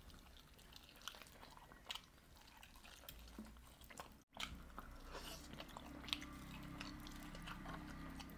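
Close-up, faint sounds of a person biting into and chewing roast chicken: small wet clicks and smacks of mouth and meat. The sound drops out for an instant about four seconds in.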